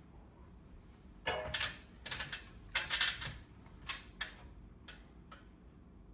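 Plastic clips of an air conditioner indoor unit's casing being snapped into place: a run of sharp, uneven clicks and snaps over about four seconds, loudest around the middle.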